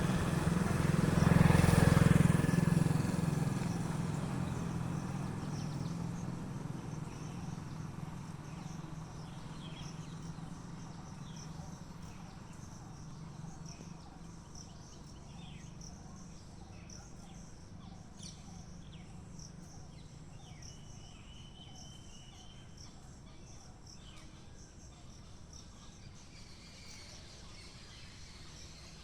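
A passing engine, loudest in the first few seconds and fading away over about ten seconds. Then insects trill steadily with scattered short bird chirps.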